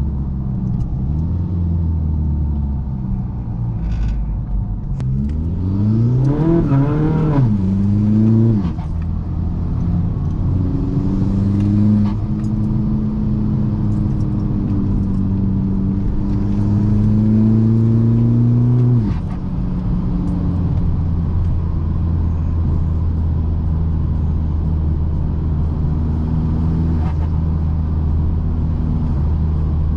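Big-turbo 2.0 TDI diesel engine of a modified VW MK6 Golf GTD under way. About six seconds in its pitch climbs quickly under hard acceleration and drops suddenly near nine seconds at a gear change. It then climbs slowly through a longer pull, drops again about nineteen seconds in, and drones steadily at lower revs.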